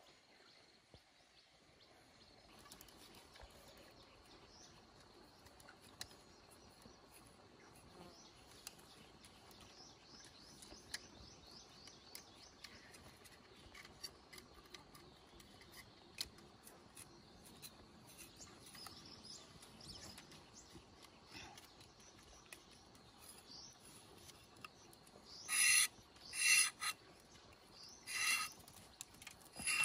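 Four loud, harsh bird calls near the end, each about half a second long. Before them, faint high bird chirps and light scattered clicks of a knife working a bamboo tube.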